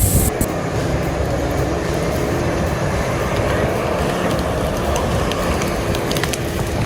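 A heavy thump, followed by steady, dense rumbling noise.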